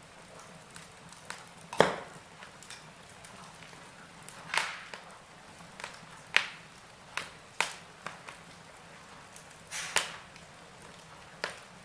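Wood fire in a fireplace crackling, with sharp pops every second or two over a faint hiss.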